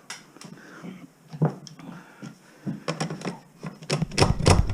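Scattered light knocks and rattles of debris and scrap being handled in a bare room, coming thicker about three seconds in, with a louder heavy clatter near the end.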